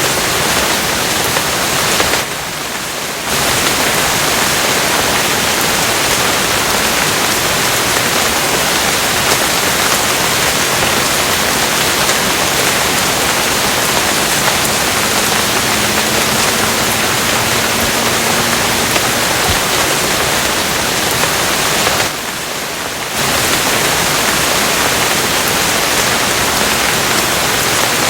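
Steady rain, a dense even hiss that dips briefly in level twice, about two seconds in and again late on.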